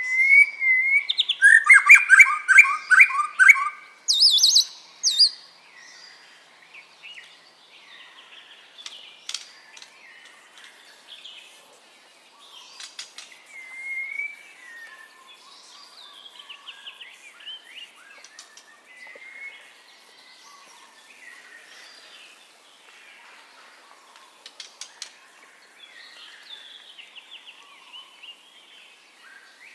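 White-rumped shama (murai batu) singing: a loud burst of rapid, varied whistled trills in the first five seconds, then quieter, scattered chirps and short phrases.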